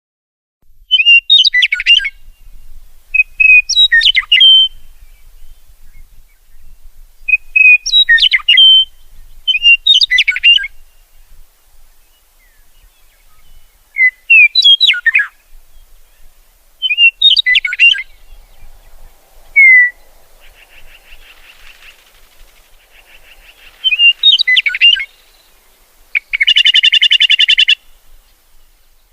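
A songbird singing short, clipped phrases of quick whistled notes, one every two to three seconds. Near the end comes a harsh, buzzy call lasting nearly two seconds.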